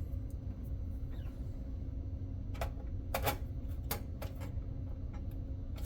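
A few sharp clicks and taps of a screwdriver and screws against metal while motherboard screws are set into their standoffs. They come mostly in the second half, over a steady low hum.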